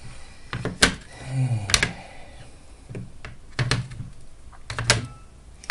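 Sharp clicks and light taps of small parts and tools being handled on a workbench, spread irregularly, with four louder clicks among them.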